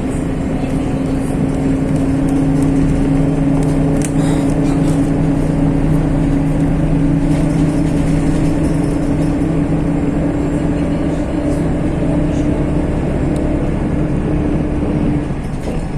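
MAZ-103 city bus driving, heard from inside the cabin: steady engine and drivetrain rumble with a humming whine that rises slightly and drops away near the end.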